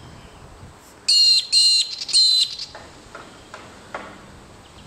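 A bird calling three times in quick succession, each call short, loud and high-pitched.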